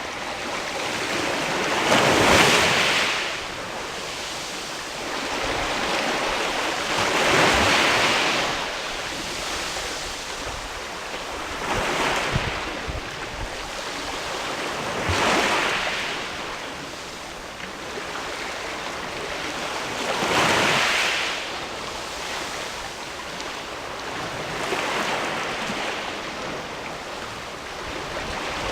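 Sea waves washing in against a rocky shore, each one swelling into a loud rush and falling back, about every four to five seconds.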